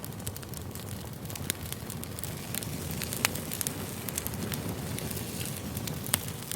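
Wood campfire burning: a steady low rumble of flames with frequent, irregular sharp crackles and an occasional louder pop.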